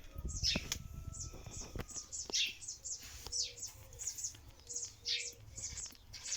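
Small birds chirping: rapid, short, high chirps, each sliding down in pitch, several a second. There are a few low knocks and a rumble in the first two seconds.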